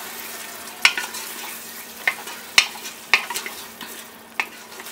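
Masala frying in oil in a pressure cooker, sizzling steadily as a spoon stirs in freshly added sour curd. About six sharp clinks of the spoon against the pot come at uneven intervals.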